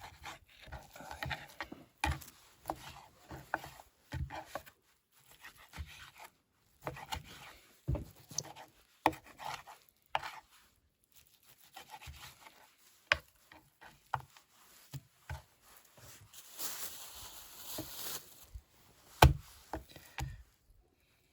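Food preparation on a wooden board: a knife cutting and scraping, with scattered knocks and taps. A stretch of rustling comes about two-thirds of the way in, and the sharpest knock a couple of seconds before the end.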